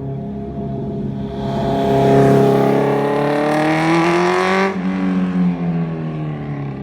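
A 2017 Kawasaki Z900's inline-four runs through an SC Project S1 titanium slip-on with the dB killer removed, making a pass-by. It rises in pitch as it accelerates, then drops off sharply about five seconds in and fades away.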